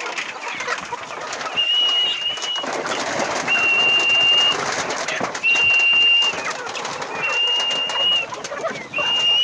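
Someone whistles one long, steady, high note about every two seconds to call a flock of birds to feed. Under the whistles runs a busy mix of bird calls and fluttering from the gathering birds.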